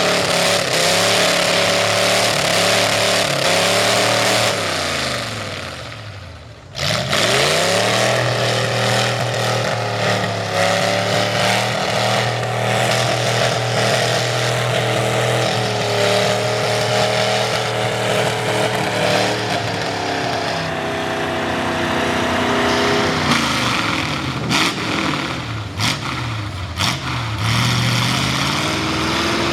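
Loud V8 Ford mud truck engine with open upright headers, revving hard with its pitch falling and rising again and again as the throttle is worked. It dies away about six seconds in and then comes back loud with rising revs. A few sharp knocks come near the end.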